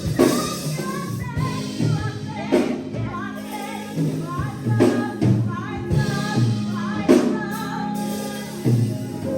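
Gospel music with singing, a steady backing and a strong beat struck about every two seconds, tambourine among it.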